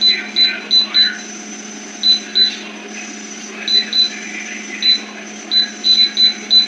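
Gevi air fryer toaster oven beeping over and over in short high beeps, in uneven runs of two to five with brief pauses, sometimes speeding up and then starting again, while its fan runs with a steady low hum. The non-stop beeping is a fault that the owner cannot explain; the timer does not count down.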